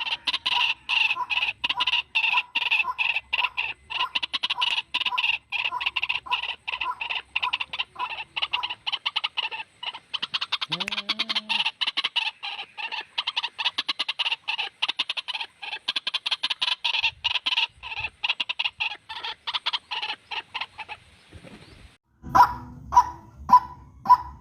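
White-breasted waterhen (ruak-ruak) calling in a long, fast run of repeated notes, several a second. After a short pause near the end it switches to slower, louder separate notes. It is a recorded lure call for drawing wild waterhens in.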